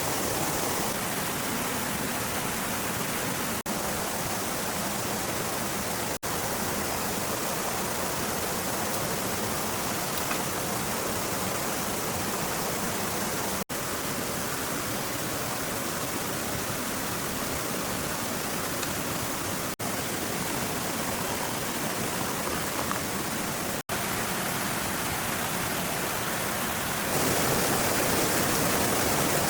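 Steady hiss of rushing water, broken five times by brief sudden gaps, and growing louder and fuller near the end.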